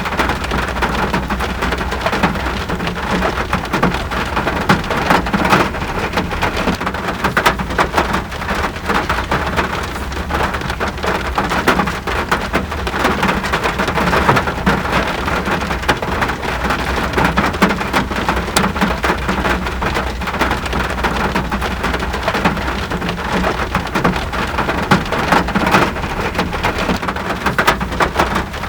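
Steady rain falling, with countless small drop impacts ticking over an even rushing hiss.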